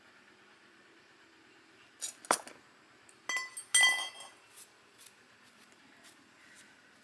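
Hard metal objects clinking and knocking together in two short clusters, about two seconds in and again about three and a half seconds in, the second one ringing briefly.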